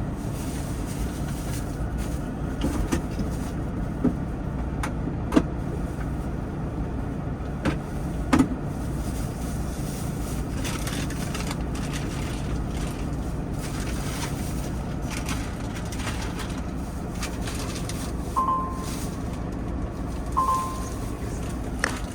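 Steady low hum of a semi truck idling, heard inside the cab, with a few sharp knocks and clicks as things are handled and put away. Near the end come three short, high chirps.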